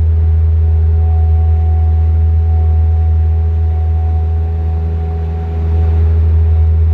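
Bobcat 763 skid steer's diesel engine running steadily under work, with a steady higher whine over the low engine note; the engine sound dips briefly about five seconds in and comes back up.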